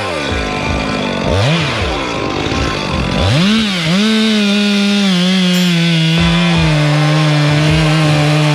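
Chainsaw engine blipping up and down for a few seconds, then held at high revs from about four seconds in as it cuts through wood.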